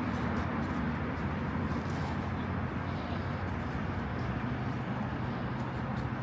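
Steady city street ambience: a continuous rumble of road traffic, with a low steady hum coming in about four seconds in.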